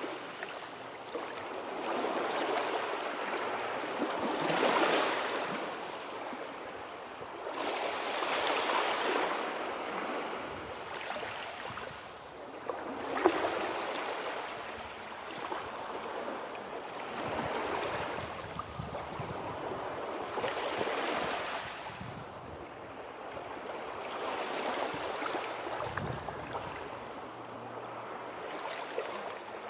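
Sea waves breaking and washing in, the surge rising and falling about every four seconds. A short sharp tick sounds once about 13 seconds in.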